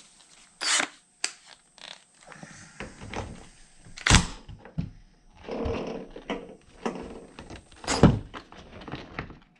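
Irregular knocks, clunks and clatters of hands working on an RC car wheel and tire with tools, with two sharper knocks about four and eight seconds in and a brief scraping stretch between them.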